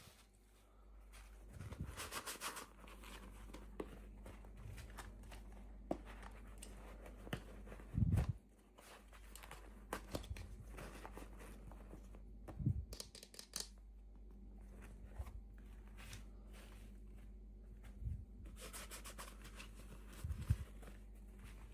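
Toy packaging handled and opened by hand: a few short tearing and rustling passes, with scattered soft knocks and clicks.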